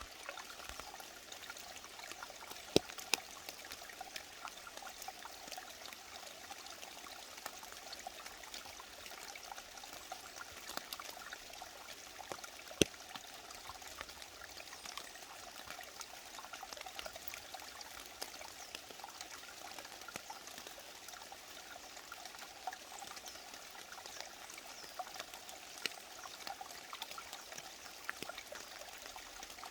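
Mountain valley stream flowing and trickling over rocks in a steady splashing rush. A few sharp ticks stand out, loudest about 3 seconds and 13 seconds in.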